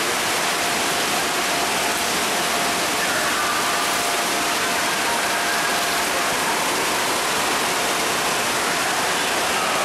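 Steady, unbroken rush of splashing water, typical of the fountains and slides of an indoor water park.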